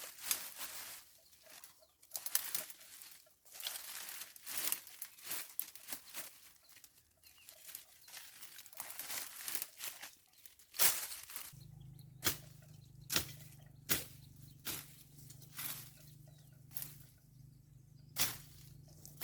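Hand tool strikes cutting and clearing weeds. At first they come as irregular swishing and rustling, then from about halfway through as sharp strokes at roughly one a second. A low steady hum sets in at the same point.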